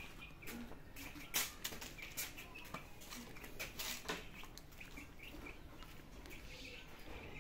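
Small birds chirping over and over in the background, short high notes. Several sharp clicks and knocks cut in, the loudest about a second and a half in and another near four seconds.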